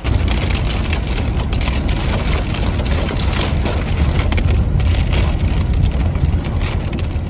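Heavy rain pelting a car's windscreen and body, a dense patter of drops over a steady low rumble from the moving vehicle.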